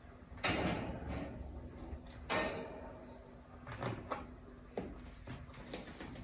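Alexandrine parrot splashing in its bath water: two loud splashes about two seconds apart, then several smaller splashes.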